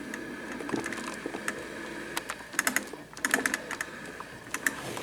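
Light clicks and taps, some in quick little clusters, from handling a plastic drip coffee maker, a 1983 Black & Decker Thermocraft, over a faint steady hum.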